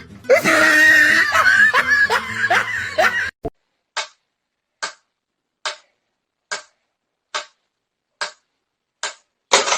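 Laughter-like vocal sounds with wavering pitch, cut off about three seconds in. Then seven short, noisy puffs follow at an even pace, a little under one a second, with silence between them.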